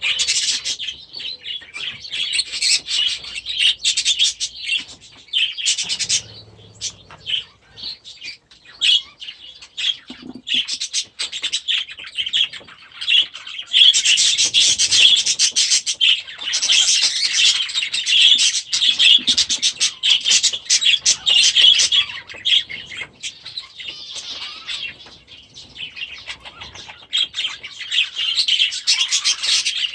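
A flock of budgerigars chattering and chirping continuously, busiest about halfway through and again near the end.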